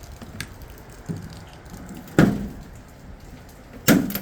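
Two sharp knocks about a second and a half apart, each ringing briefly, with a lighter click and a softer knock before them.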